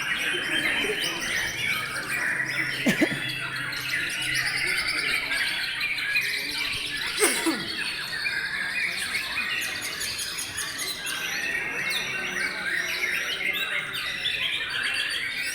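Many caged white-rumped shamas (murai batu) singing at once in a dense, overlapping chorus of whistles and chirps, with two brief louder sounds about three and seven seconds in.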